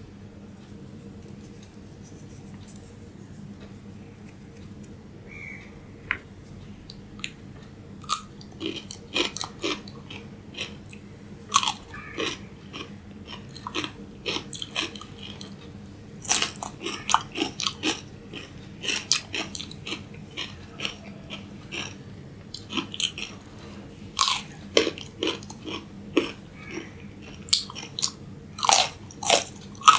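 A person biting and chewing raw cucumber and carrot sticks: sharp wet crunches in clusters, several a second, starting about eight seconds in after a quiet stretch.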